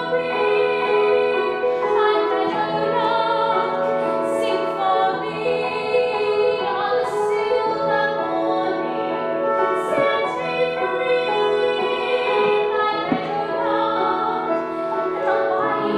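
A woman singing a slow, lyrical musical-theatre ballad in a trained, operatic voice with instrumental accompaniment, holding long sustained notes.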